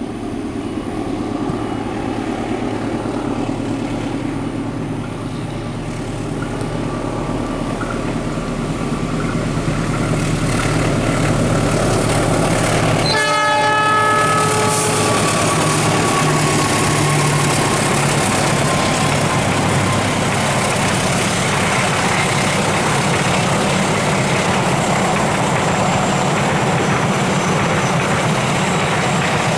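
Passenger train's diesel locomotive approaching with its engine running, giving one horn blast about halfway through, then the train passing loudly with a steady rumble of wheels on the rails.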